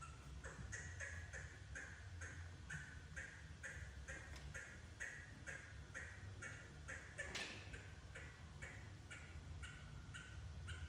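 A bird calling agitatedly, a steady run of short, high notes at about three a second, with one louder sweeping call about seven seconds in.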